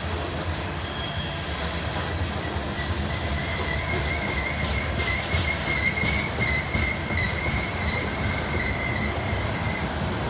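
Loaded coal train's steel wheels rolling on the rails with a steady low rumble. A thin, high steel-on-steel squeal sets in a couple of seconds in, holds steady, and fades shortly before the end.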